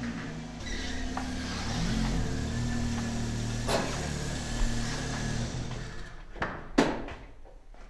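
BMW M3 E92's 4.0-litre V8 running at a steady speed. About six seconds in it dies away, followed by a couple of sharp knocks.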